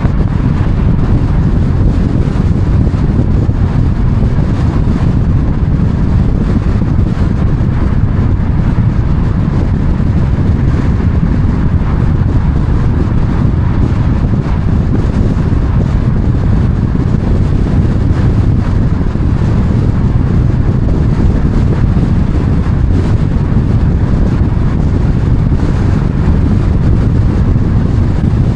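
Loud, steady low rumble of wind buffeting the microphone, unchanging throughout.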